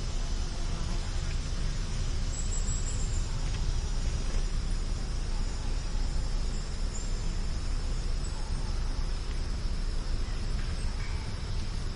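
Outdoor ambience: a steady low rumble under a continuous high insect drone, with a few faint high chirps about two to three seconds in.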